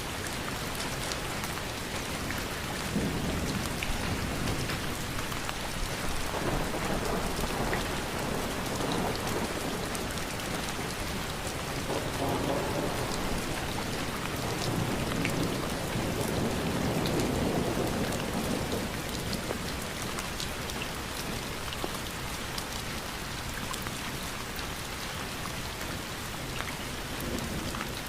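Steady rain falling, a dense hiss with scattered fine drop ticks. Low rumbles swell and fade several times, loudest a little past the middle.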